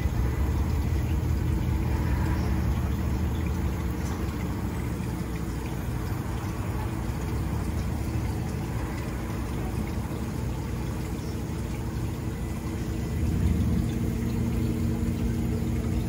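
A steady low mechanical hum, like a running motor or idling engine, with a faint watery wash over it.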